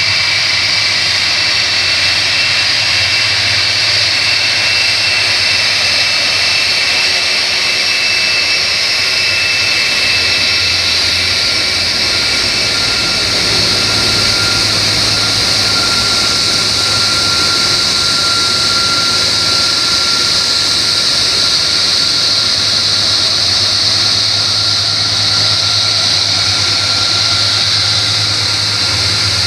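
Boeing 747-400's Rolls-Royce RB211 turbofan engines running as the airliner arrives: a steady, loud jet roar with high whining tones that drift slightly lower.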